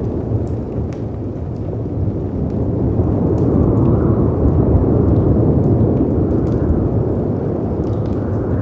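Storm ambience of howling wind and crashing sea waves, a deep rumbling surge that swells to a peak about halfway through and eases off, with faint crackles of a fireplace scattered over it.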